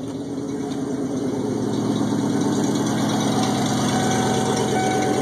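1996 Ford Bronco's V8 idling after a cold start, its exhaust open at the missing tailpipe. The engine drone grows louder over the first two seconds, then holds steady.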